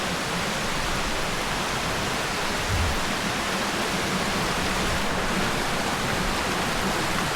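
Steady rush of a rainforest river or waterfall, an even hiss that does not change. A brief low thump about three seconds in.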